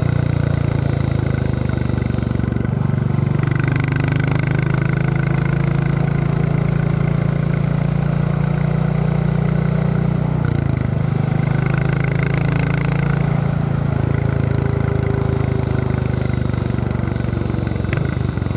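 Royal Enfield Classic 350 single-cylinder engine thumping steadily under way, heard from the rider's backpack. The engine note steps twice, about three seconds in and again about eleven seconds in.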